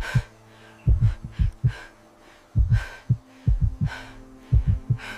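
Heartbeat sound effect: low double thumps about once a second, over a low steady drone, with a few sharp breaths between them, a pounding heart of fear.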